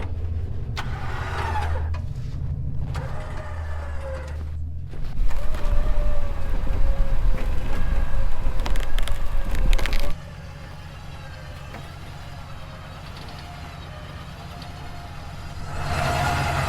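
Recovery vehicle's engine running while its electric winch is worked from the cabin controls. A louder, heavier stretch starts about five seconds in and cuts off abruptly about five seconds later, then the engine runs on more quietly.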